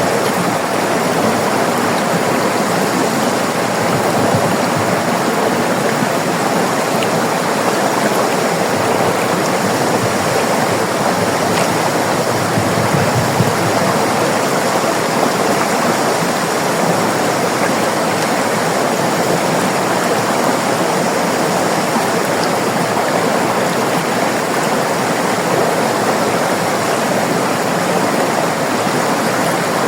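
River water flowing over rocks: a steady rushing and babbling that does not let up.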